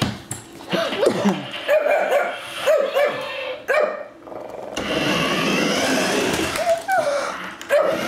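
A Shih Tzu barks repeatedly in short, sharp barks, several a second at times. From about five seconds in, a steady electric whirr, like the small motor of a remote-control car, runs under the barks.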